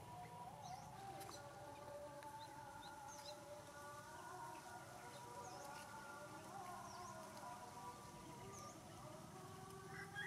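Faint outdoor ambience with small birds giving short repeated chirps every second or two, over a faint continuous wavering drone of tones.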